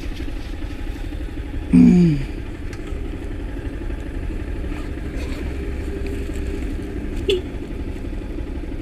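Motorcycle engine idling steadily. About two seconds in comes a short, louder sound that falls in pitch, and there is a brief small knock near the end.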